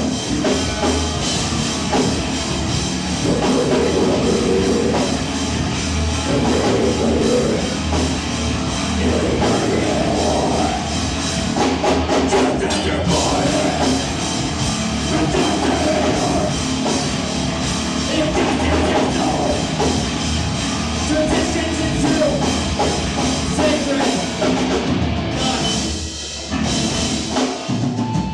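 Live rock band playing loud, with a drum kit and guitars, heard from the crowd; the sound thins out briefly near the end before a few more drum hits.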